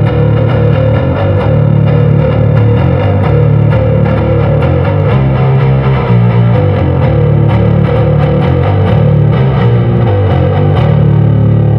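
Electric bass played through a Lateral Sounds Root distortion pedal set to high gain: a heavily distorted riff of changing low notes.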